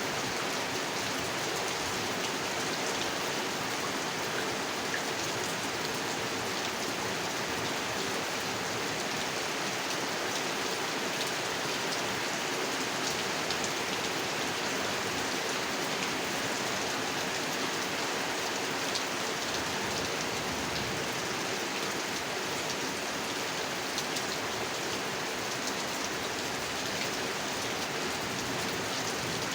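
Steady rain falling on a pond: an even hiss of drops on the water with scattered, slightly louder single drops.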